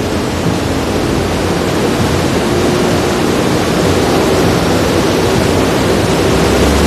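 Steady, loud rushing whir of the air-brake fan on the jump's descender line as it slows the falling jumper.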